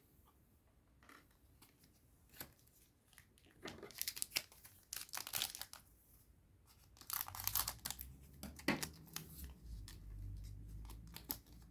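A foil trading-card booster pack being torn open and crinkled, in short rips and rustles starting about three and a half seconds in. A low rumble of handling joins them in the second half.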